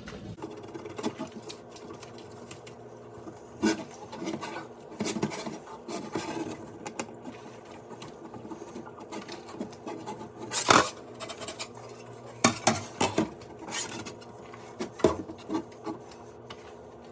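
A glass piece from a refrigerator being scrubbed by hand in dish water: a soft rubbing with scattered knocks and clinks, the loudest about eleven seconds in.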